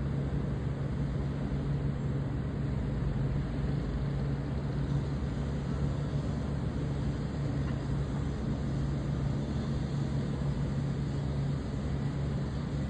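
Steady low engine drone: a constant low hum over an even rush of noise.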